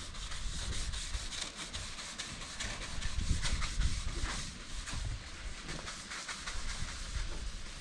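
Sanding: a scratchy rubbing hiss over a low rumble, going on unevenly.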